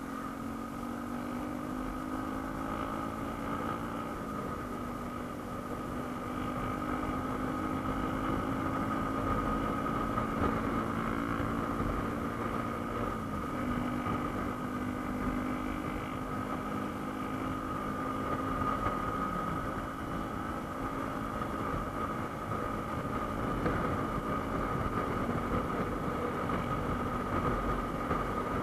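Yamaha M-Slaz motorcycle's 150 cc single-cylinder engine running under way, its note steady with a few short drops in pitch.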